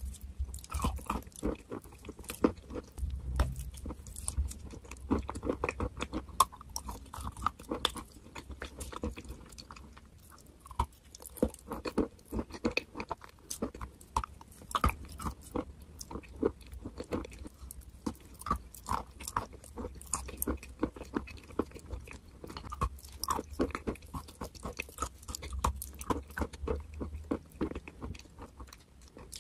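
Close-miked chewing of white chalk and clay chunks coated in a creamy paste: irregular dry crunches and sharp cracks, several a second, among wet, sticky mouth sounds.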